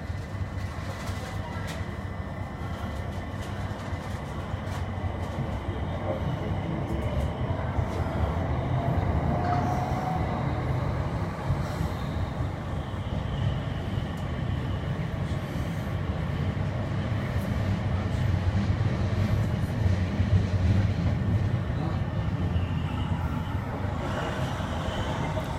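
Southeastern Class 376 Electrostar electric multiple unit pulling away: a steady rumble of wheels and running gear that slowly grows louder, with a faint whine rising in pitch about nine seconds in.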